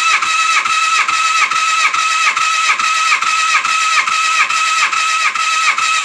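Suzuki GSX-R750 inline-four being cranked on its electric starter with the spark plugs out, for a compression test of the third cylinder. The starter whine dips in an even rhythm of about three beats a second as the gauged cylinder compresses, then stops near the end.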